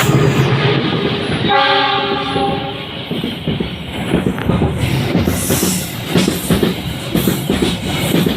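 Indonesian freight train passing: the locomotive's diesel engine running, a single horn blast about a second and a half in lasting about a second, then the wagons' wheels clattering rhythmically over the rails.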